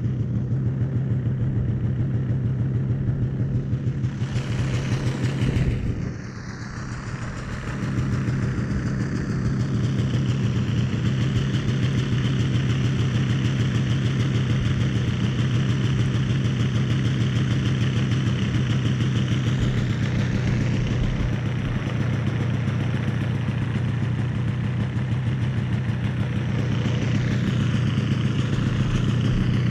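A 1982 Yamaha Bravo snowmobile's small two-stroke engine idling steadily as it warms up after a cold start in sub-zero weather. About six seconds in it briefly sags and quietens, then picks back up.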